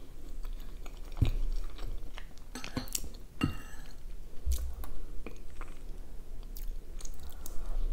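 Close-miked chewing and mouth sounds of someone eating syrniki (cottage-cheese pancakes) with caramel. A few sharp clicks come from a metal spoon scraping in a ceramic bowl.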